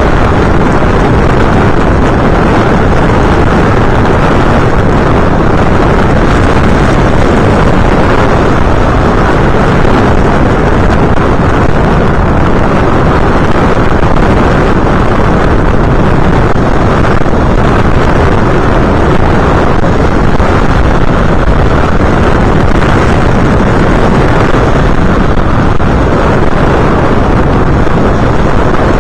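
Loud, steady rush of wind buffeting the onboard camera microphone of an FPV aircraft in flight, mixed with its motor and propeller noise, unchanging throughout.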